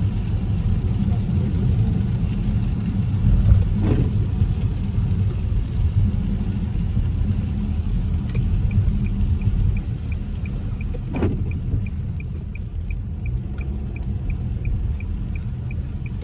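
Car interior road noise while driving: a steady low rumble from engine and tyres. About halfway through, a regular clicking starts, roughly two to three ticks a second, typical of a turn-signal indicator.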